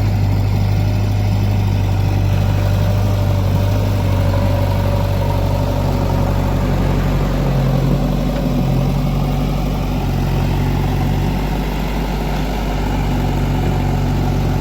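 Heavy diesel engine running steadily under work, a deep hum whose pitch shifts briefly twice.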